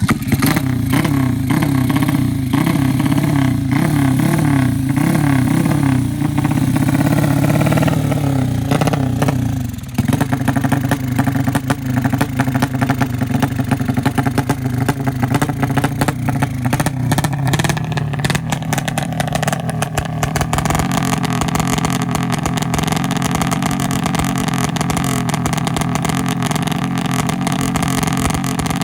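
Honda Revo Absolute's single-cylinder four-stroke engine running through an aftermarket K-One racing exhaust. For the first ten seconds the engine is repeatedly revved, the pitch rising and falling. The revs then drop and it runs steadily at a fast idle with a rapid exhaust pulse.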